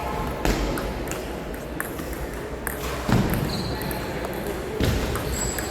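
Table tennis ball clicking sharply off bat and table a few times at irregular spacing, with two heavier thuds about three and five seconds in, over faint chatter in a large hall.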